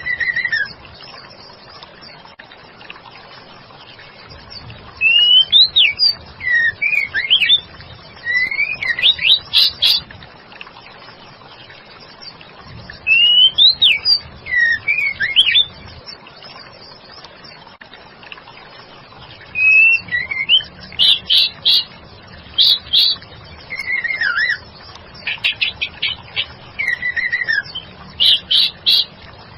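Female white-rumped shama singing: bursts of sweeping whistled notes and rapid stuttering phrases, separated by pauses of a few seconds.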